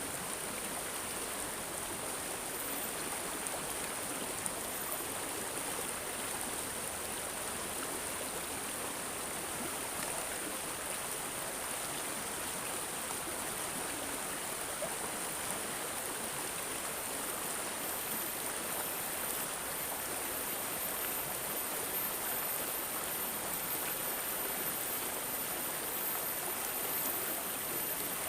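Water of a small stream gurgling and trickling steadily, with no pauses.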